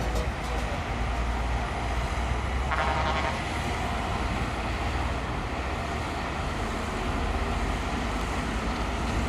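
Heavy diesel earthmoving machinery running: a steady low engine rumble with mechanical noise, and a brief higher-pitched sound about three seconds in.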